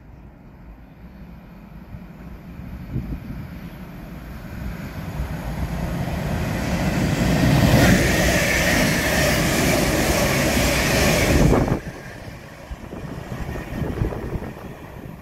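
London Northwestern Railway Class 350 Desiro electric multiple unit passing through the station at speed. The rumble of wheels on rail builds as it approaches, stays loud for about five seconds, then drops away suddenly as the last coach goes by.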